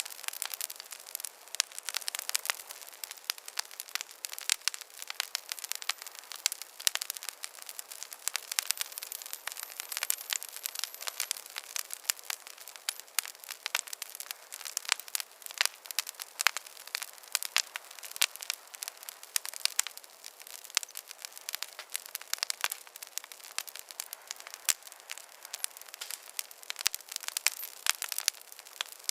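Wood campfire crackling, with frequent irregular snaps and pops over a soft hiss of burning.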